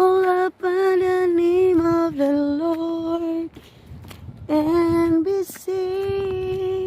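A woman singing unaccompanied in long held notes, in three phrases with short breaks between them.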